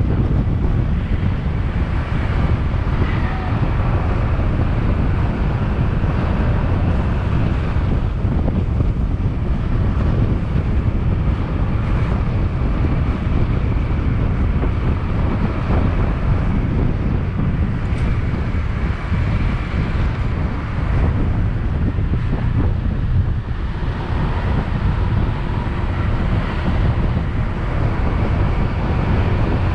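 Wind buffeting the microphone of a camera on a moving motorbike, a steady, dense low rumble.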